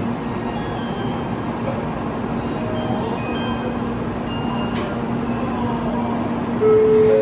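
Shinkansen train standing at the platform with its doors shut, giving off a steady low hum over station noise. A single sharp click comes a little before five seconds in. Near the end a louder chime of held notes rising in steps begins.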